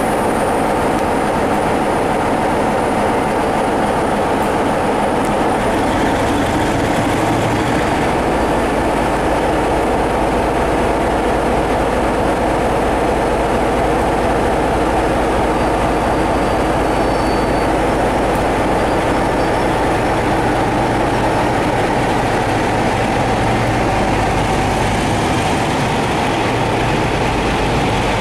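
Passenger train of heritage coaches pulling slowly out of a station, the coaches rolling past with a steady rumble on the rails.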